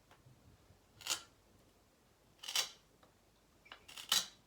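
Puzzle pieces being taken out of a children's animal puzzle board: three short knocks or scrapes about a second and a half apart, with a few faint ticks between.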